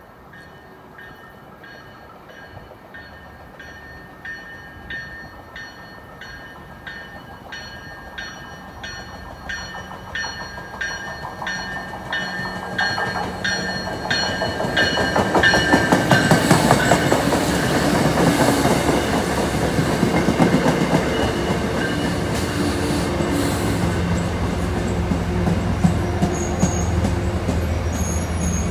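MBTA commuter rail train approaching with its bell ringing a little under two strokes a second, growing louder. From about halfway the train runs past close by, with loud wheel-on-rail rumble and clatter and a steady low hum.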